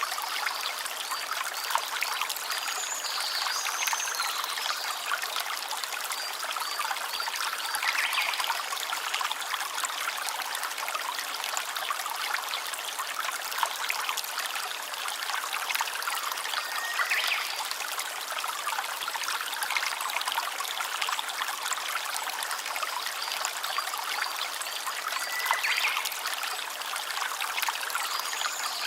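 Small stream trickling and babbling over stones, a steady flow with dense little splashes and gurgles.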